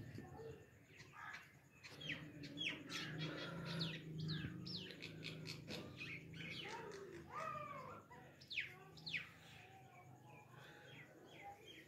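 Birds chirping: a series of quick, high, downward-sweeping calls, then a run of short repeated chirps near the end.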